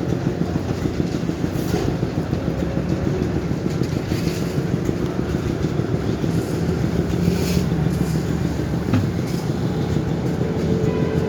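Diesel engine of concrete-pouring machinery running steadily under load, with a few short rattling surges on top.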